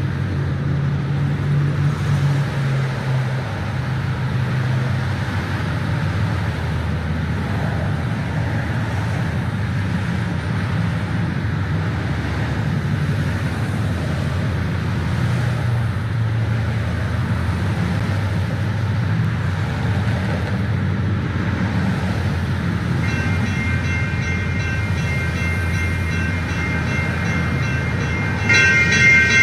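Steady low rumble of a train on the line. About three-quarters of the way in, a rapidly repeating high ringing joins it, and it turns louder near the end.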